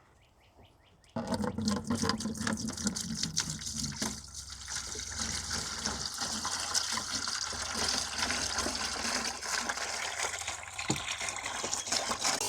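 Liquid coolant being poured from a jug into the fill bucket, splashing and glugging steadily. It starts about a second in.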